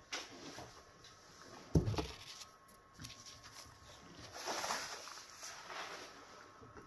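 Close-up mouth sounds of chewing fufu with okra stew, with scattered small wet smacks and clicks. A dull thump comes about two seconds in, and a paper tissue rustles briefly a little past the middle.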